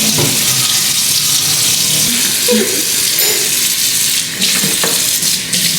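Kitchen tap running into the sink during dishwashing: a steady hiss of water that dips briefly twice near the end.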